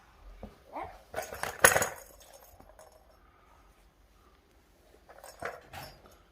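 Small hard objects knocking and clinking as they are handled: a cluster of clicks in the first two seconds, the loudest just before two seconds in, and a few more knocks near the end.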